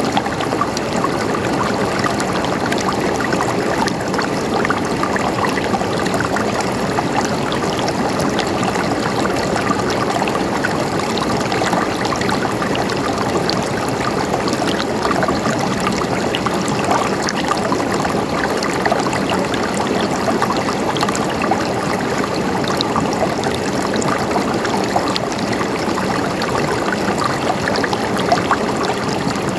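Flowing water gurgling steadily, an even, unbroken rush with fine splashing detail.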